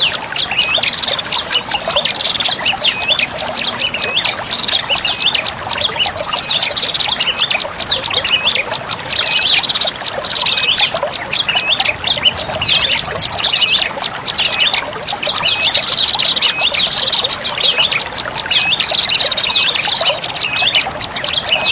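Prenjak lumut bird lure call: a dense, continuous run of rapid, high chirping notes.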